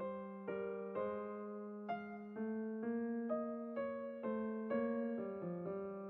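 Background music: a slow electric piano melody, notes struck about twice a second over a held low note.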